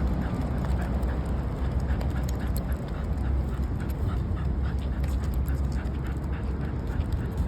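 Old bull terrier breathing hard and snuffling in a quick, even rhythm, about three breaths a second, over a steady low rumble.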